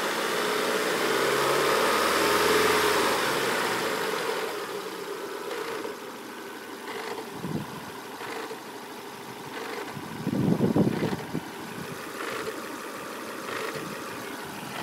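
Volvo S40/V40 1.8-litre four-cylinder engine running warm. The engine note swells and falls back in the first few seconds, then settles to an idle with irregular short knocks and a louder surge about ten seconds in. The knocks are the strange rattle that the owner notices once the engine is warm.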